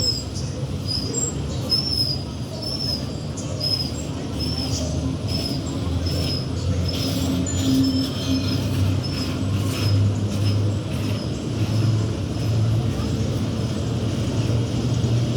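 Freight train wagons rolling past with a steady rumble of wheels on rail and faint clicks. A short high squeak repeats about twice a second through the first half.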